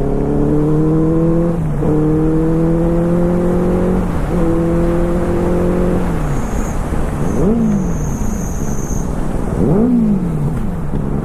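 Superbike engine accelerating through the gears: the pitch climbs steadily, drops sharply at an upshift about two seconds in and again about four seconds in, and climbs once more. Then the revs fall away, and two short throttle blips rise and fall near eight and ten seconds in.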